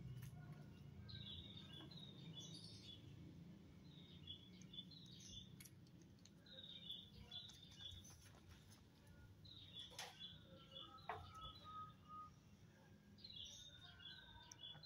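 Faint, quiet ambience with a small bird chirping in short repeated phrases every couple of seconds over a low steady background hum, and a few soft clicks.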